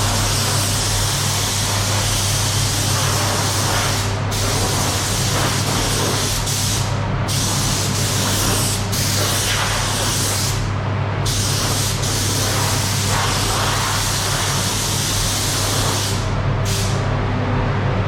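Compressed-air spray gun spraying primer: a steady loud hiss that cuts out briefly about five times as the trigger is let go between passes. A constant low hum runs underneath.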